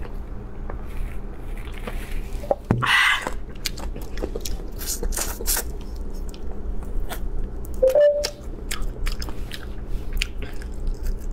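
Close-miked eating: crunching bites and chewing on bone-in spicy chicken pieces, with many short crisp clicks. There is a short breathy sound about three seconds in, after a swig of canned beer.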